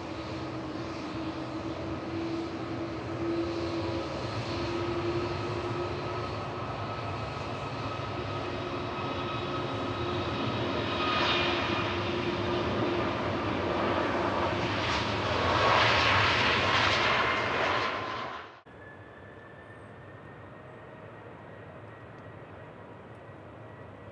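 Jet airliner's engines as it passes, a steady roar with several whining tones that grows louder, then stops abruptly about three-quarters of the way through, leaving a much quieter steady background.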